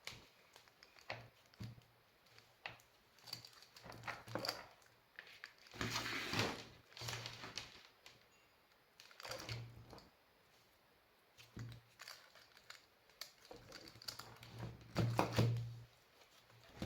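Scattered small clicks, knocks and rustling from hands handling a lithium-ion battery pack and tools on a workbench, with two longer bouts of handling noise about six and fifteen seconds in.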